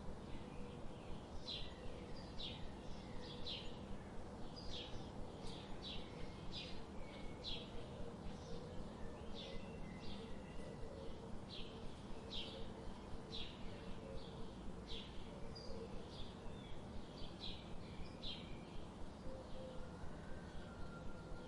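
Birds chirping: short, high chirps repeated one or two times a second over a steady background hiss.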